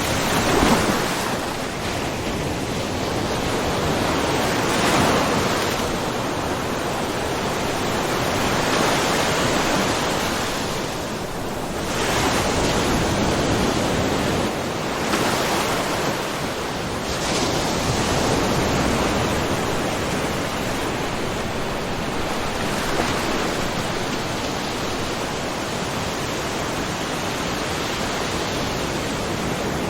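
Small ocean waves lapping and splashing against a rocky cove shore in a steady wash, swelling gently every few seconds.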